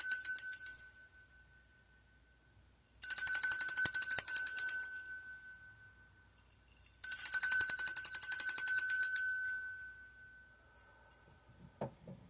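A small metal bell rung rapidly in three bursts about four seconds apart, each burst ringing out for a second or two after the shaking stops.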